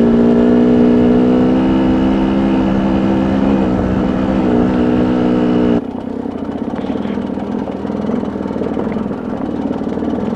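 Ram pickup's engine running steadily at low speed as the truck crawls up a rough, rocky four-wheel-drive road. About six seconds in, the sound cuts suddenly to a quieter, rougher engine hum.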